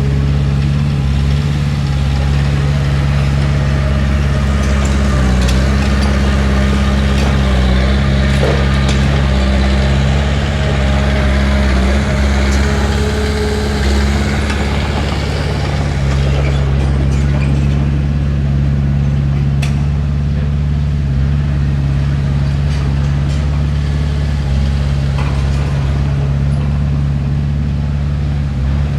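Heavy diesel engine of a Komatsu D31P bulldozer running steadily, a deep continuous drone with a few faint clanks.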